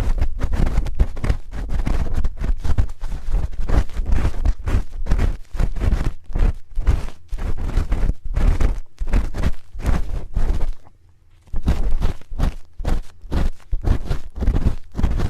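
A spoon scraping and rubbing against an ASMR microphone's ear in quick, close strokes, with a heavy low rumble from contact with the mic. The strokes pause briefly a little over two thirds of the way in.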